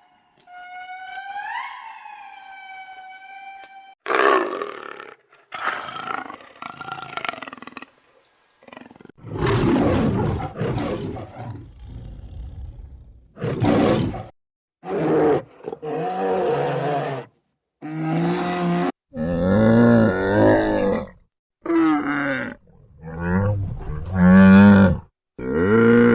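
A string of separate animal calls, one after another: first a few short rising whistle-like calls, then a run of loud roars and growls with short pauses between them.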